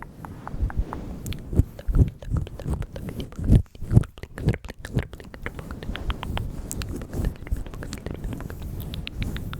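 ASMR mouth sounds close to the microphone: a steady run of wet clicks and smacks, with soft low thuds that come thickest around the middle.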